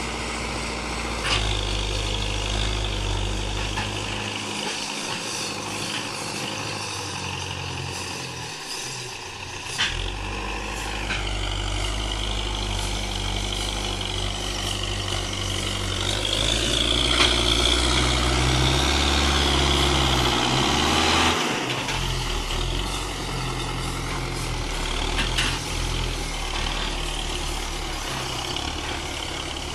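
Tractor's diesel engine running while hauling a heavily loaded sugarcane trolley, its note varying, with a louder stretch from about 16 to 21 seconds in and a few sharp clicks.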